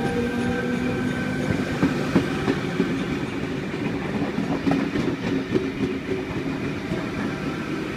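V set double-deck electric intercity train pulling out of the station, its wheels clicking over rail joints under a steady motor tone.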